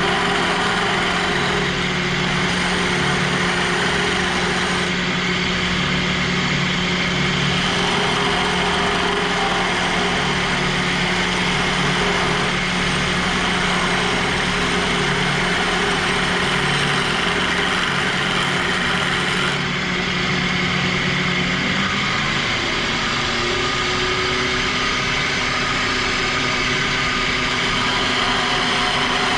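Wood lathe running at high speed while a square nose scraper cuts across the spinning wood: a steady motor hum with a hiss of scraping over it. The hum's pitch rises a little about 22 seconds in.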